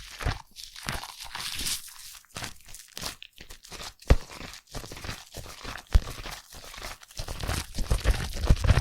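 Foam lather squished and rubbed close to the microphone, a dense irregular crackling and squishing, with two sharp clicks about four and six seconds in.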